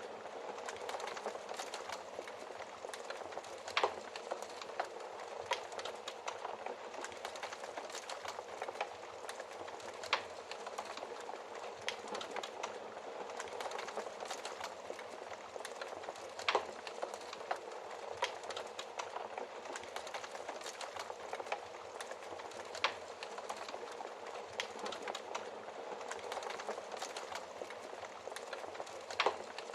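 Wood fire crackling: a steady hiss of burning with many small snaps, and a louder pop every few seconds.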